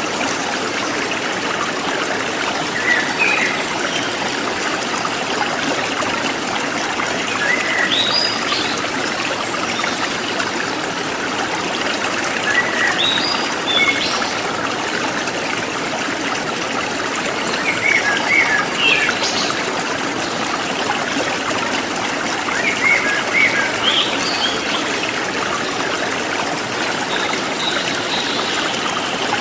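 Steady rushing and trickling of a forest stream, with short bird chirps over it every few seconds.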